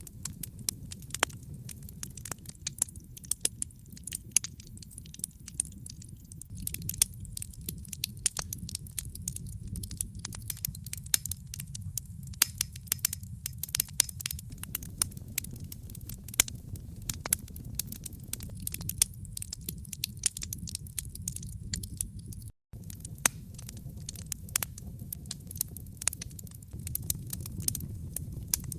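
Wood campfire crackling: frequent sharp pops and snaps over a steady low rumble of the burning fire. The sound cuts out for a split second about three-quarters of the way through.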